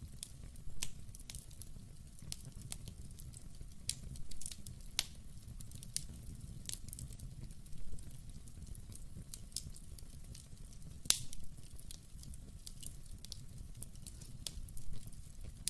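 Wood fire crackling: irregular sharp pops and snaps over a steady low rumble of burning, with one pop much louder than the rest partway through.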